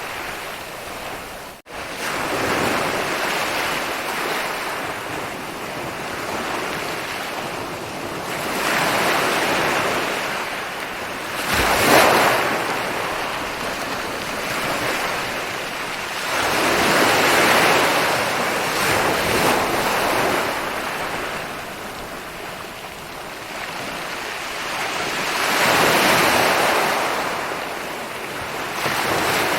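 Ocean surf rolling onto a beach: a continuous wash of water that swells and ebbs as waves break every several seconds, with one sharp crash about twelve seconds in. The sound cuts out for an instant near the start.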